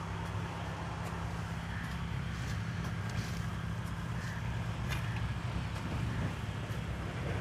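Small engine of a mini tractor rotavator running steadily, with a few light clicks over it.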